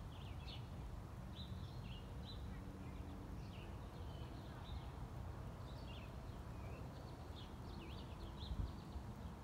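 Songbirds chirping in short, repeated calls, over a low steady background rumble.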